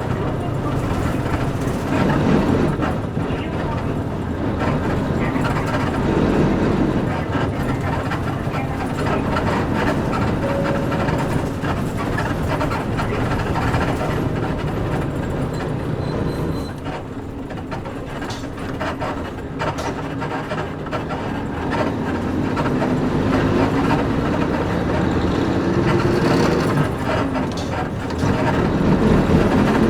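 Inside a Nissan Diesel KC-UA460LSN bus under way: its PG6 diesel engine runs under the cabin noise, easing off and going quieter a little past halfway, then rising steadily in pitch as the bus accelerates. Short creaks and rattles from the body and leaf-spring suspension come through throughout.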